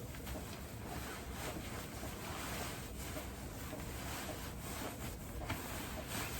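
Rustling and swishing of layered winter-jacket and hoodie fabric as the clothes are pulled on and adjusted.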